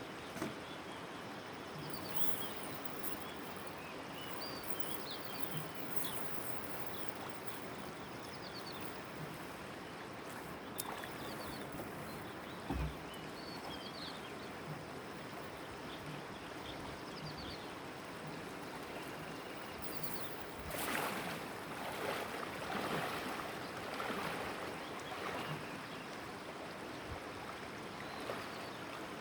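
Mekong river water washing and lapping around a small boat, with faint bird chirps. There is a single knock about halfway through and louder splashing a little past two-thirds of the way in.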